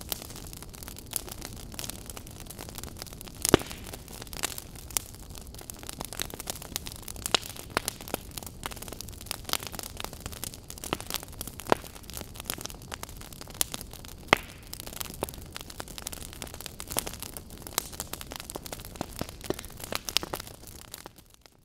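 Wood fire crackling in a fireplace: irregular sharp pops and snaps over a steady low hiss, fading out near the end.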